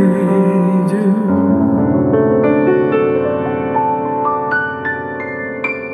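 Instrumental passage of a slow ballad: piano plays single notes climbing step by step higher over a held chord, ending on a high note.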